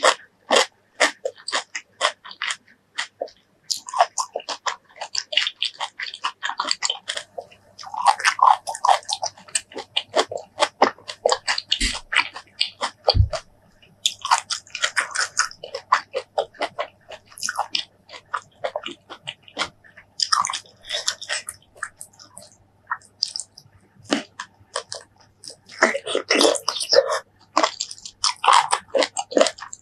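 Close-miked eating of fresh fruit: crisp bites and crunchy, wet chewing, a dense crackle of clicks in bursts with short pauses. Two soft low thuds come around the middle.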